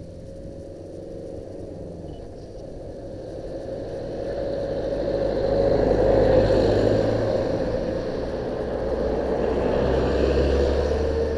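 Yamaha WR125X's single-cylinder four-stroke engine running under way, with rushing wind and road noise. The sound swells to its loudest about six seconds in, eases, then rises again near ten seconds.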